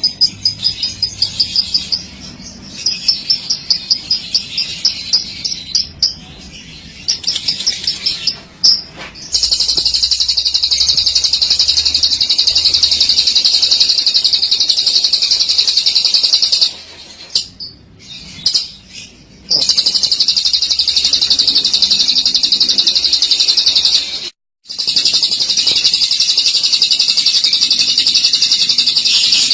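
Lovebird singing its long 'ngekek': a fast, high-pitched chattering trill held unbroken for several seconds at a time, after shorter bursts of rapid chirps at the start. It breaks off twice briefly, once about two-thirds of the way in.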